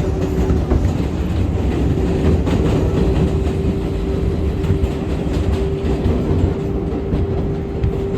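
R188 subway train running on the 7 line: wheels rumbling and clacking over the rails, with a steady whine over the rumble.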